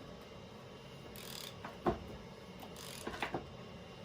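Hand tools working on a car's differential: a few sharp metallic clicks and knocks, the loudest about two seconds in, with a short scraping rasp before it and another cluster of clicks near the end.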